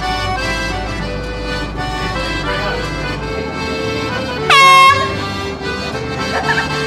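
Background music, cut through about two-thirds of the way in by one loud horn blast lasting about half a second, its pitch sliding up as it starts and then holding steady.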